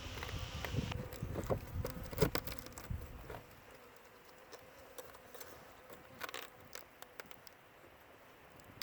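Clicks, taps and rustling of a bee package being handled, over a faint hum of Italian honeybees; the handling noise thins out after about three seconds, leaving scattered clicks.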